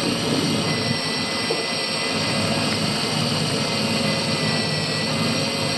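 Fishing boat's engine running steadily, a constant drone with a thin high whine over it.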